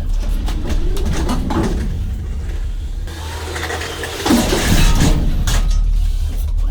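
A vehicle engine running steadily under scattered knocks and clatter, with a louder surge about four seconds in.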